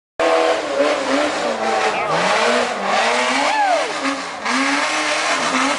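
An off-road 4x4's engine revving hard, its pitch rising and falling over and over as the throttle is worked. It starts abruptly, and a short falling squeal cuts in about three and a half seconds in.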